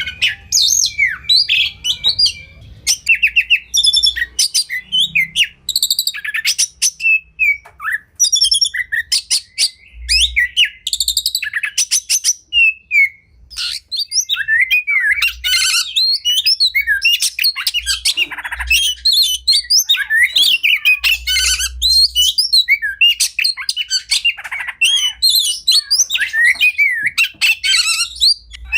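Oriental magpie-robin (kacer) singing continuously: a varied run of whistled glides, fast rattling strings of repeated notes and harsh buzzy notes, the full 'isian' song with mimicked phrases that keepers play to tutor their birds.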